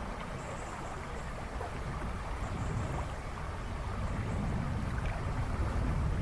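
River rushing and splashing steadily, with a low rumble underneath and a few birds faintly chirping in the background.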